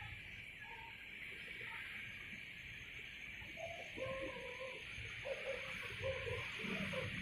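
Night-time riverbank ambience: a steady high insect chorus, with short low calls coming in from about halfway through.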